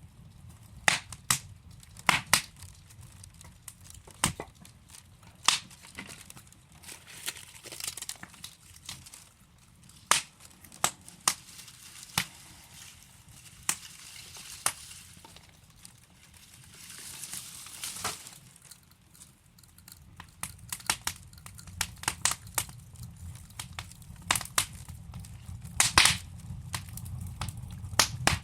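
Wood logs burning in a fireplace: irregular sharp crackles and pops over a soft hiss, with a brief rushing swell of flame about two-thirds of the way through.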